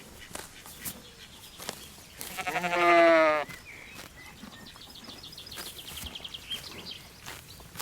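A sheep bleats once: a single wavering bleat lasting about a second, starting about two and a half seconds in.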